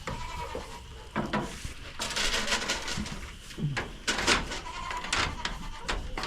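Nigerian Dwarf dairy goats bleating in short calls several times, with bursts of rustling in between.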